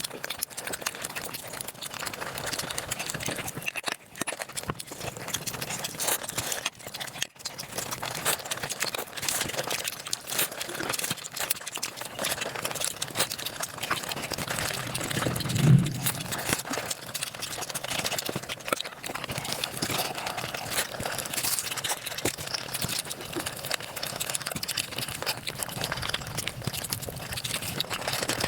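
Eating sounds from a mukbang sped up five times: a dense, rapid chatter of chewing, smacking and crunching clicks. About halfway through there is one brief, louder, lower sound.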